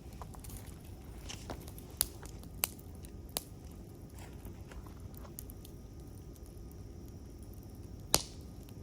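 Campfire crackling, with a few sharp pops and snaps over a steady low hiss of burning wood; the loudest pop comes near the end.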